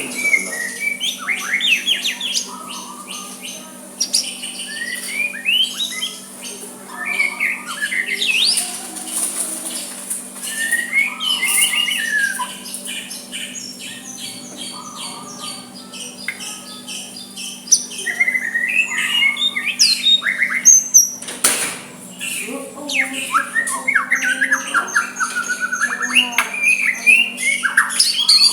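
White-rumped shama (murai batu) singing softly in varied phrases of rising and falling whistles and rapid repeated chirps, in bursts with short pauses between them. A faint steady hum lies underneath.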